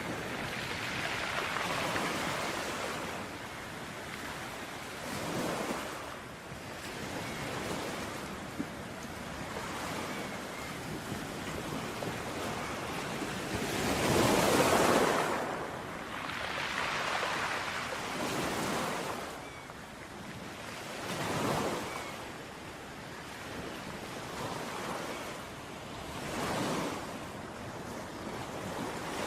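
Ocean waves washing onto a beach, the surf swelling and receding every few seconds, with the biggest surge about halfway through.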